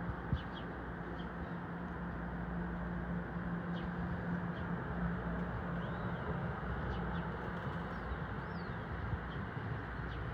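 Wind buffeting the microphone with a low steady hum, while small birds chirp now and then in short high notes. A single brief knock sounds just after the start.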